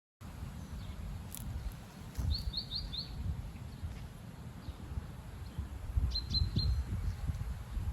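Strong gusting wind buffeting the microphone with a low, uneven rumble. Twice, a small bird gives a quick run of three or four high chirps.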